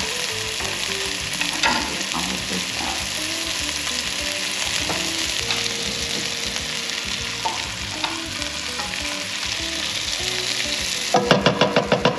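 Chopped onion, ginger and garlic sizzling in hot oil in a nonstick frying pan. Near the end, a metal utensil scrapes quickly against the pan, about eight strokes in a second, as the onions are stirred.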